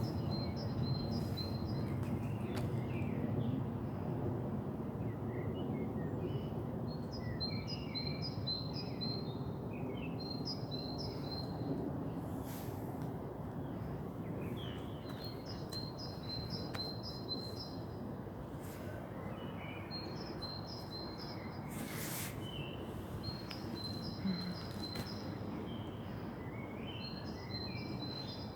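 A songbird singing short phrases of quick, high, repeated notes every few seconds over a steady low outdoor background hum.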